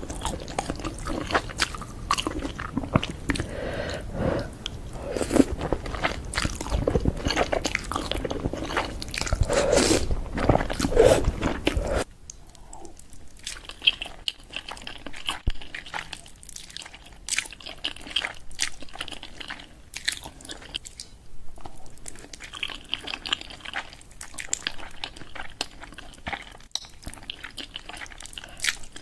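Close-miked eating of spicy noodles: a steady run of wet chewing, biting and smacking sounds. About twelve seconds in the sound cuts abruptly to a quieter stretch of the same kind of chewing.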